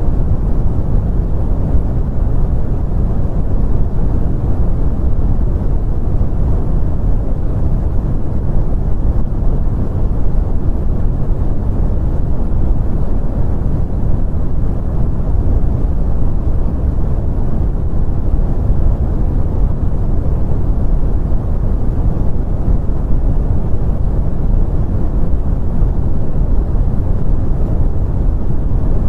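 Continuous brown noise: a steady, deep rumbling hiss, strongest in the bass and fading out toward the treble, with no changes.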